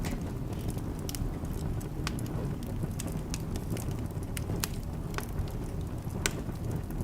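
Wood fire burning in a fireplace: a steady low rumble of the flames with irregular sharp crackles and pops from the burning logs, one louder pop about six seconds in.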